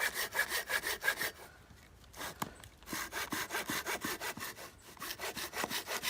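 Hand saw cutting wood in quick, even back-and-forth strokes. It stops for about a second and a half near the start, then starts sawing again.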